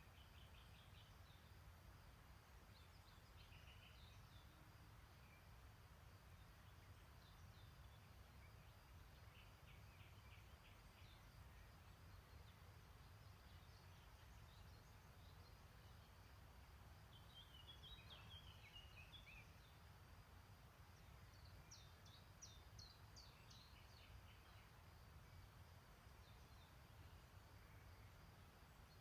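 Faint songbirds twittering in short chirping phrases every few seconds over a quiet, steady low rumble.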